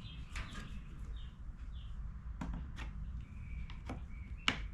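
Scattered light clicks and taps of hands and tools working at a plastic trim piece on a generator's casing, the sharpest click near the end. A few short bird chirps sound faintly in the background.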